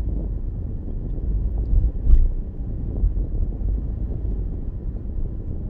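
Inside a moving car with the windows open: steady low road and engine rumble with wind buffeting the microphone, and a brief bump about two seconds in.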